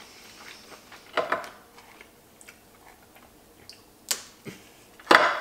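American lobster shell cracking and snapping as a piece is pulled off: a few sharp cracks, the loudest near the end, with small clicks between.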